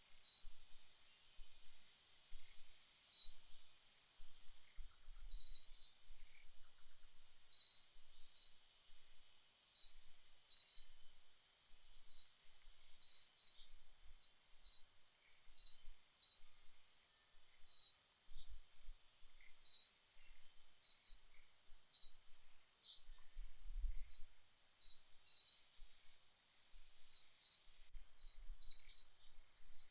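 A small bird chirping over and over: short, high single or double chirps at an uneven pace, with a faint steady high hiss of insects or noise underneath.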